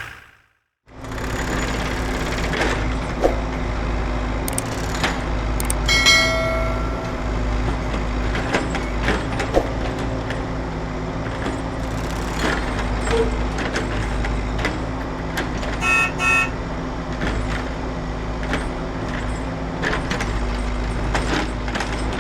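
Steady vehicle-like hum with scattered clicks and knocks, and two short horn toots, one about six seconds in and one about sixteen seconds in.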